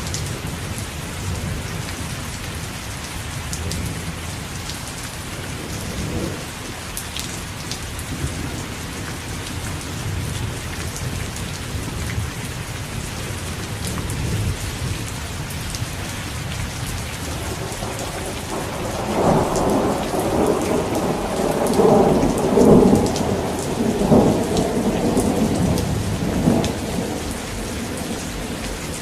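Steady rain falling, with thunder rumbling low throughout. About two-thirds of the way through, a loud roll of thunder swells and rumbles for several seconds before dying back.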